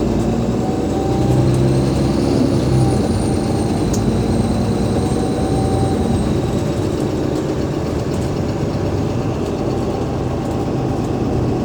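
Alexander Dennis Enviro500 MMC double-decker bus running, its Cummins ISL8.9 diesel and drivetrain heard from on board. Over the engine a thin high-pitched whine rises slightly from about a second and a half in and fades out around six seconds in; this is the odd whine the bus is noted for.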